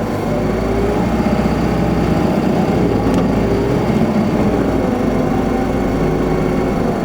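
Isuzu Erga city bus's diesel engine and drivetrain running while the bus is driving, its pitch rising and falling gently as speed changes.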